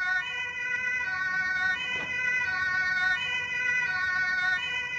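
Electronic siren-like sound: a steady set of tones whose pattern switches back and forth about every second and a half.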